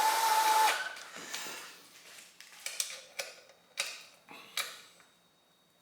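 A drill spinning a tail-housing bolt into a TH400 transmission: it winds up and runs, then stops less than a second in. After that come a handful of light clicks and taps.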